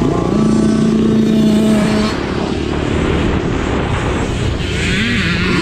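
Small 50cc dirt bike engines running and revving, more than one at once. The pitch holds steady, then climbs and drops as the bikes accelerate, with a higher rising buzz about five seconds in.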